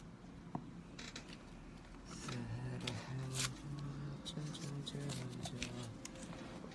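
Small sharp clicks and scrapes of plastic parts being handled, as when an IQOS heated-tobacco device is taken apart. About two seconds in, a low tune of held notes joins in.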